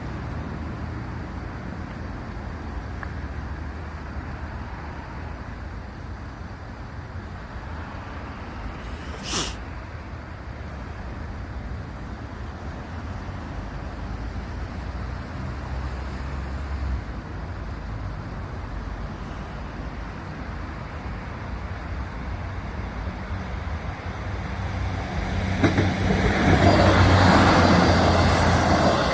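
Road vehicles running at a level crossing, a steady low engine rumble, with one short sharp hiss about nine seconds in. From about twenty-five seconds a train passing over the crossing grows loud with a rushing clatter.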